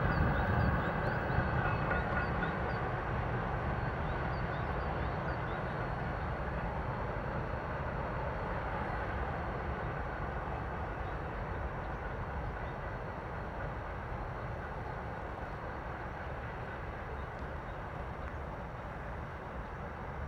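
Freight train rolling past on the rails, a steady rumble that slowly fades as the train moves away.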